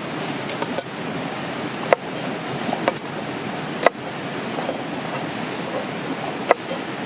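Open wood fire crackling, with a sharp pop every couple of seconds and fainter crackles over a steady rushing hiss.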